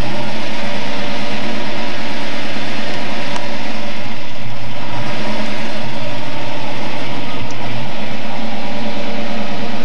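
A 1970 Ford Mustang Boss 302's V8 runs steadily near idle as the car rolls slowly past.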